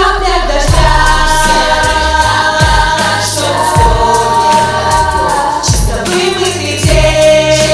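Children's vocal ensemble singing together in held, sustained notes over an instrumental backing track with a steady bass line and regular drum beats.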